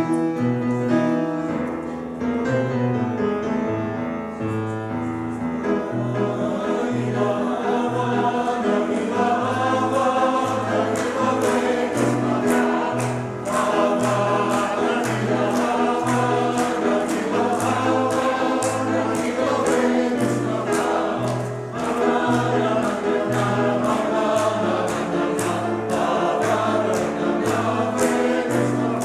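Choir singing an upbeat song with instrumental accompaniment and a pulsing bass line. A steady beat of sharp strikes joins about eight seconds in.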